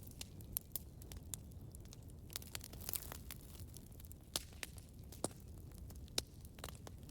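Campfire burning with a steady low rumble and irregular sharp crackles, a few louder pops among them.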